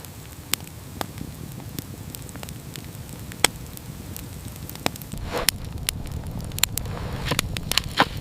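Wood fire crackling, with scattered sharp pops. From about five seconds in, a few brief rustling or scuffing noises join it.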